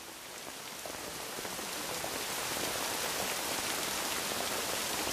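Steady rain with the ticks of individual drops, growing louder over the first two or three seconds and then holding steady.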